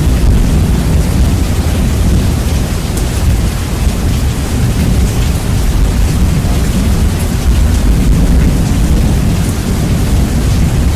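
Heavily bass-boosted recording of rain and thunder: a loud, steady wash of rain noise under a deep, continuous rumble.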